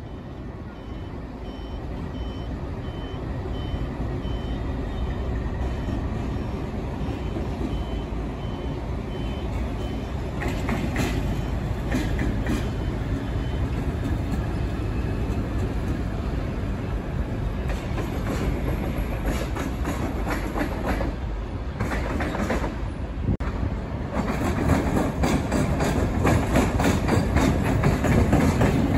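A train running on the tracks, its rumble growing steadily louder, with clusters of sharp clicks about a third of the way in and again past the middle, and loudest in the last few seconds.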